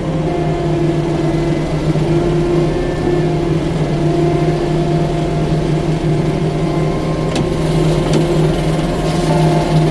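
Compact track loader's diesel engine running steadily at a constant speed, with two sharp clanks about seven and eight seconds in.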